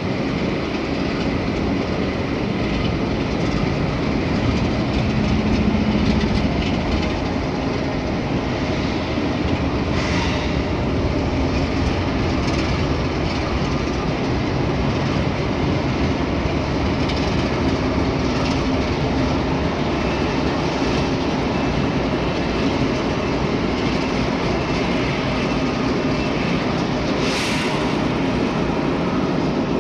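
Freight train rolling past, a steady rumble with wheels clattering over the rail. A brief high-pitched flare comes about ten seconds in and a stronger one near the end.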